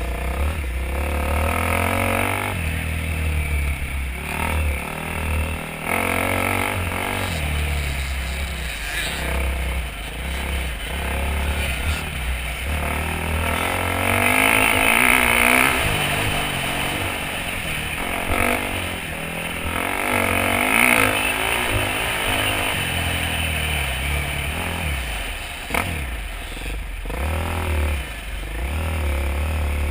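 Dirt bike engine revving up and falling back over and over as it is ridden hard, with wind buffeting the action-camera microphone.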